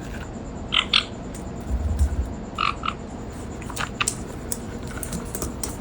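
Parrot making short paired chirps about a second in and again near three seconds, followed by scattered sharp clicks; a brief low thump about two seconds in.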